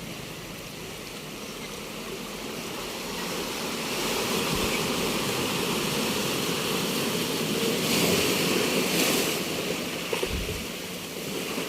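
Ocean surf washing onto a beach: a steady rush of breaking waves that swells about a third of the way in, is loudest about two-thirds through, then eases off.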